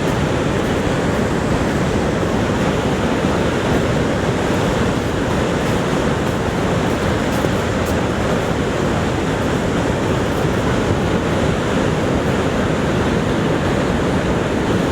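Niagara Falls thundering, a steady, unbroken roar of falling water, deepest in the low end.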